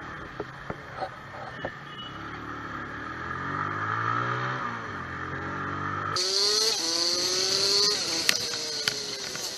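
A vehicle engine heard from on board, its pitch rising and dipping as it accelerates and changes gear. About six seconds in, the sound cuts abruptly to another engine pulling up steadily in pitch, with a few sharp clicks near the end.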